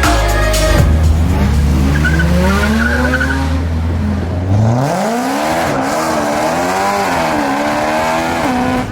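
A car engine revving: its pitch climbs steadily for a few seconds, then rises and falls repeatedly as the throttle is worked.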